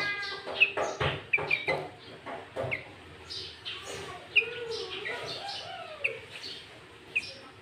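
Sooty-headed bulbul (kutilang) singing: a run of quick, sharp chirps and short whistled phrases that repeat every half second or so, with lower sliding notes mixed in, a song said to carry greater green leafbird (cucak ijo) phrases.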